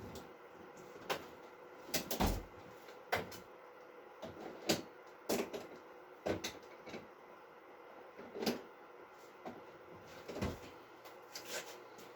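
Irregular clicks and knocks of metal tools and parts being handled at a workbench, about a dozen sharp taps spread unevenly with short pauses between.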